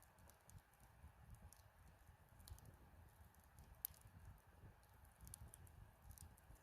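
Faint crackling of a wood campfire: scattered small pops and ticks, with one sharper snap about four seconds in.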